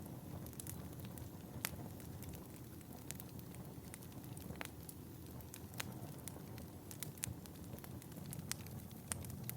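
Wood fire in a fireplace crackling, with scattered sharp pops over a low steady rumble of burning.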